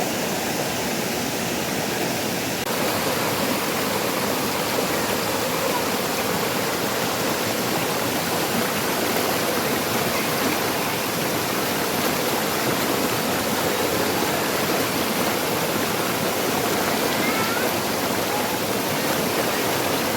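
Waterfall: a steady rush of falling water, a little louder from about three seconds in.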